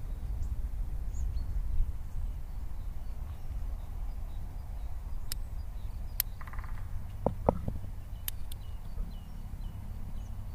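Forest ambience: faint bird chirps over a steady low rumble, with a few sharp clicks and taps scattered through it.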